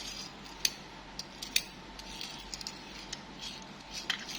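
Small sharp clicks and light rattling of a toy car being handled, with a soft rustle between them; the two loudest clicks come about two-thirds of a second and a second and a half in.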